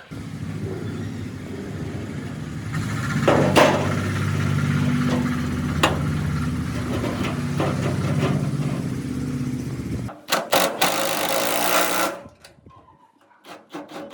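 A workshop machine running steadily with a low, even hum and a few sharp knocks. About ten seconds in, it cuts to a harsher, noisier grinding or cutting sound that lasts about two seconds.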